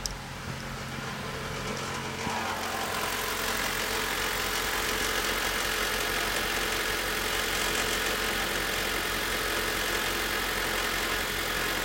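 Honda Civic 1.7-litre four-cylinder engine running steadily at idle, growing louder over the first two or three seconds and then holding even.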